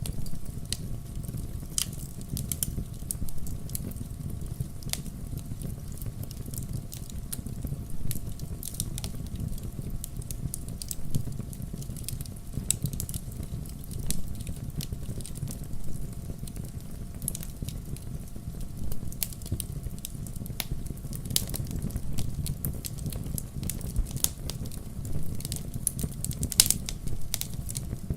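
Wood fire crackling: burning logs giving off irregular sharp pops and snaps, several a second, over a steady low rumble of the flames.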